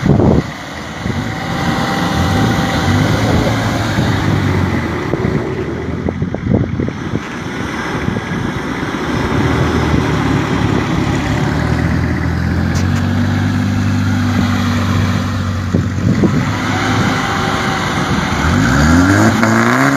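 Off-road 4x4 engines running and revving hard in mud: a Toyota Hilux pickup stuck with its wheels spinning, and a Troller T4 4x4 working to tow it out. The engine note is held steady for a few seconds, then climbs sharply near the end, with a brief loud knock right at the start.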